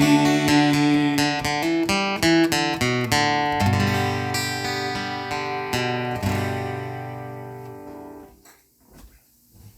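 Acoustic guitar playing a closing phrase: a run of picked notes, then two chords left to ring and fade out, ending about eight seconds in. A few faint knocks follow.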